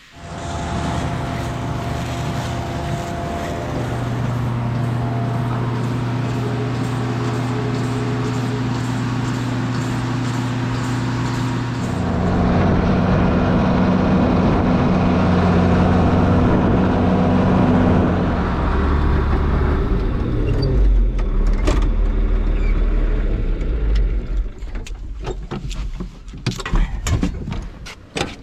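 A vehicle engine running steadily, changing to a different pitch about twelve seconds in. It then drops to a low rumble and dies away over the last few seconds among a scatter of clicks and knocks.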